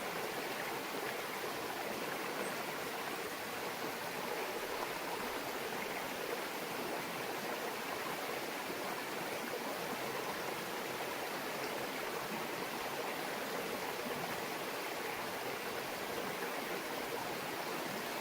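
A small stream murmuring steadily over rocks: an even, continuous babble of running water.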